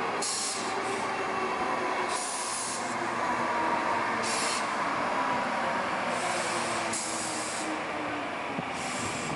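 Stainless-steel electric commuter train (CPTM EMU) running past close by: a steady rumble of wheels on rail with a faint whine, and short hissing surges every two seconds or so.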